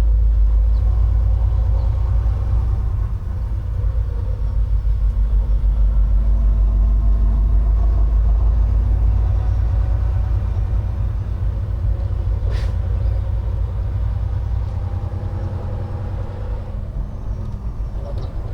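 Semi-truck's diesel engine and road noise heard from inside the cab while driving: a steady low rumble. A single short click sounds about twelve seconds in.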